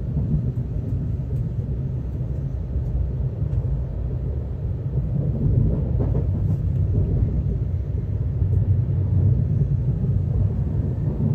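Steady low rumble of a JR Central N700S Shinkansen train running, heard inside the passenger car, swelling slightly midway.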